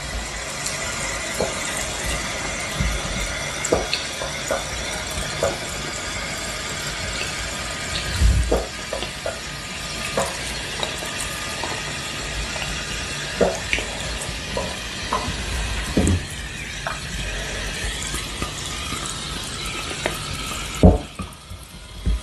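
Dry fake chalk being chewed and crunched in the mouth: a steady crumbly crackle with sharp crunches at irregular intervals. The loudest crunches come about 8, 16 and 21 seconds in.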